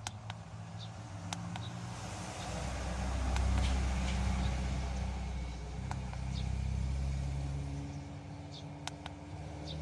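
A steady low engine hum, with a motor vehicle's sound swelling up and fading away again over several seconds in the middle. A few light clicks of scanner buttons being pressed.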